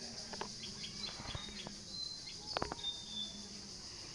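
Faint outdoor ambience: a steady high hiss with a few brief, thin bird chirps and a couple of soft clicks, the clearest about two and a half seconds in.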